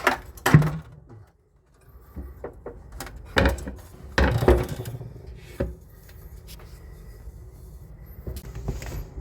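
A few separate knocks and clatters with rubbing in between, as parts of the air conditioner's indoor unit are handled during the work on its fan motor.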